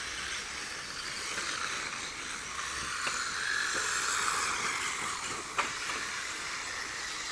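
1/10-scale front-wheel-drive RC rally cars running on a dirt track: a steady high hiss of motors and tyres on loose dirt, with a motor whine that swells and fades around the middle. A sharp click comes about five and a half seconds in.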